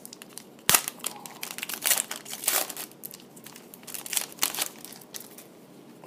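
Trading-card pack wrapper being torn open and crinkled by hand, in irregular crackling bursts with a sharp click about a second in.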